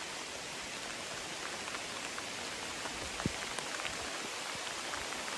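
Steady rain falling, with scattered individual drops ticking; one sharper drop hit about three seconds in.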